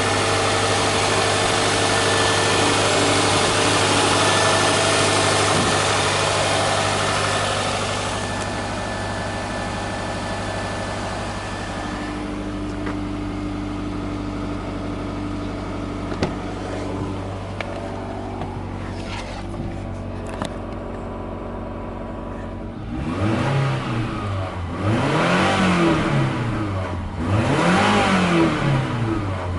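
2009 Subaru Legacy boxer engine running on a test stand: a loud, steady higher idle that settles over several seconds to a quieter steady idle. Then, from a little past two-thirds of the way in, it is revved three times in quick succession, each rev rising and falling in pitch, before climbing again at the end.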